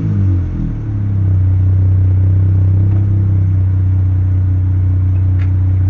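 2020 Dodge Charger engine idling steadily through a muffler-deleted exhaust, a deep, even idle settling from a cold start flare in the first second.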